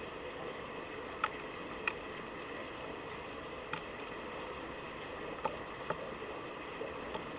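About six sharp taps and knocks, spaced irregularly, from animals working at a garden feeder, over a steady background hiss.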